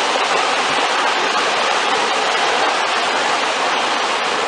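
Steady rushing of fast-flowing water, a dense even roar without any deep rumble.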